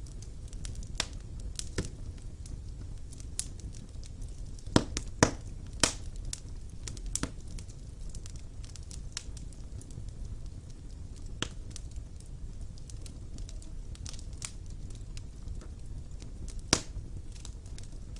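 Wood fire burning in a stone fireplace: a steady low rumble with irregular sharp crackles and pops, a few louder pops about five to six seconds in and again near the end.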